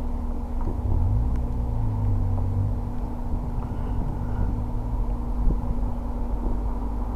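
Motor vehicle traffic: a low engine rumble that grows stronger about a second in and eases off around three seconds, over a steady hum.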